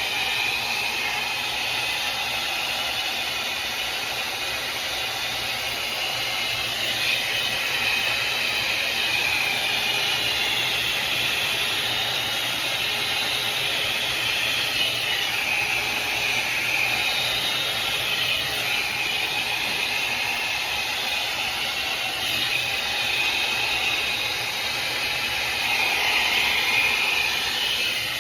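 Hot-air hair dryer brush running: a steady rush of blown air with motor whir as it is worked through hair, rising and falling a little in level.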